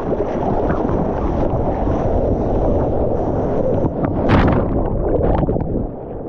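Surf water rushing and churning around a surfer as he takes a wave, with wind buffeting the microphone. A louder splash comes about four seconds in.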